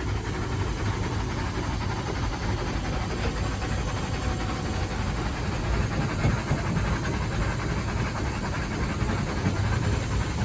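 Steady running noise on the footplate of a three-cylinder Bulleid Pacific steam locomotive on the move: a continuous low rumble.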